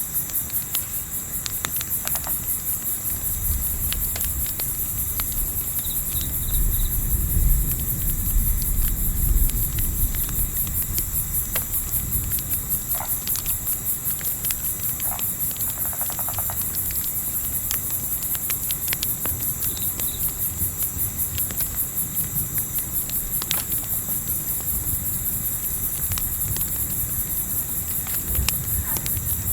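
Crickets chirping steadily in a high, fast-pulsing chorus, with sparse sharp crackles from a campfire. A low rumble swells and fades between about three and ten seconds in.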